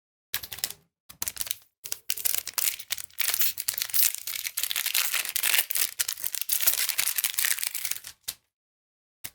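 Magic: The Gathering cards and foil booster-pack wrappers being handled: a dense run of crinkling, rustling and flicking that stops abruptly about eight seconds in.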